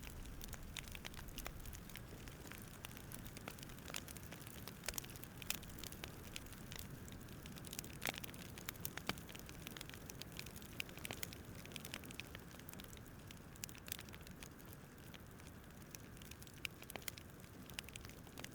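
Wood fire crackling: irregular sharp pops and snaps over a soft, steady low rumble of flames.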